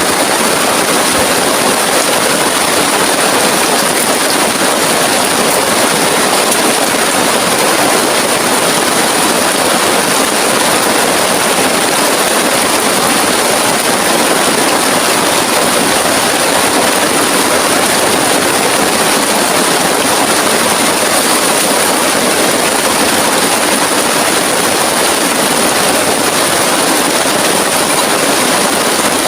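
Heavy rain pouring down, a loud, even hiss without a break.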